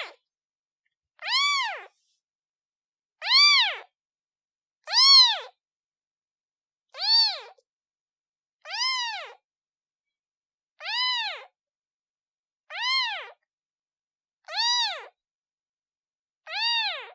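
Newborn kitten meowing for its mother: a steady series of short, high calls about every two seconds, each rising and then falling in pitch, with silence between them.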